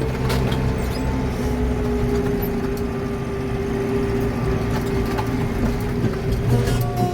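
Tractor engine running steadily under way on the road, with a few brief rattles.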